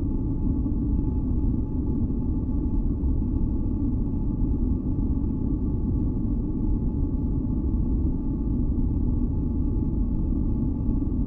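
Steady, deep rumbling masking noise with nearly all of its energy in the low end, running without change, with a few faint steady tones held above it.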